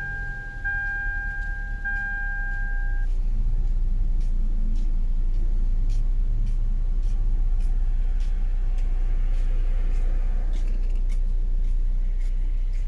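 Toyota Camry engine running steadily at idle, with the car's warning chime beeping at an even pace a few times early on before stopping.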